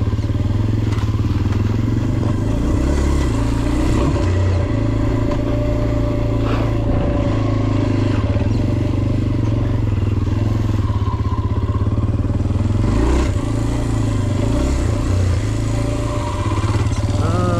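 Dirt bike engine running steadily while riding on a trail, with small rises and dips in revs.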